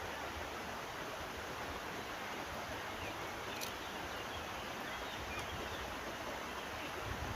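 Steady rush of a flowing river. A single faint click about halfway through.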